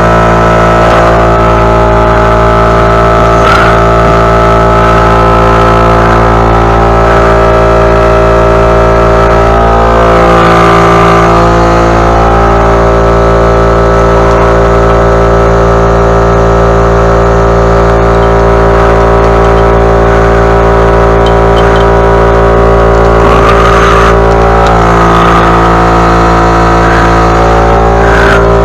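Small gasoline engine running steadily at a constant speed, close by and loud, with a few brief scraping or rustling flares over it.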